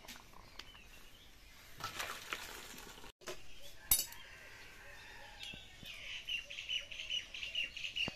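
A small bird chirping in a quick run of short, repeated calls, about two or three a second, through the second half. A single sharp click comes about four seconds in.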